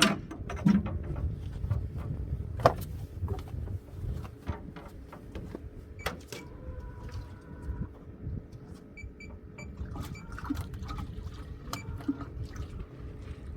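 Water sloshing and splashing with scattered knocks and clatter of gear on a small boat.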